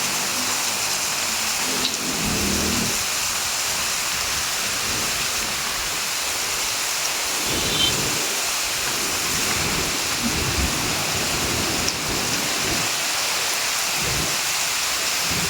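Heavy rain pouring steadily, with short low rumbles coming and going underneath.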